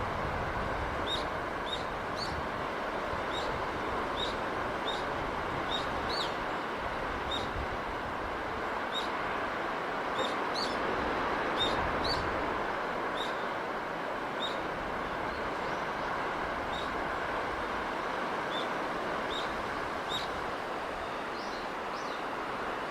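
Steady rushing noise of the sea breeze, with a small bird chirping high and short about once a second over it.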